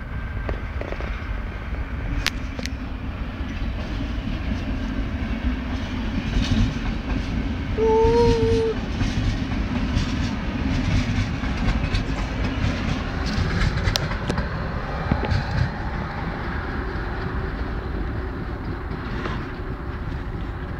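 ČD class 471 CityElefant double-deck electric unit passing, wheels rumbling and clicking over rail joints and points. One short, steady horn blast about eight seconds in.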